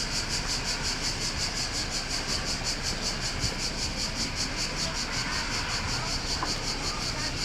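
Cicadas buzzing in a steady, rapidly pulsing chorus over a low background rumble.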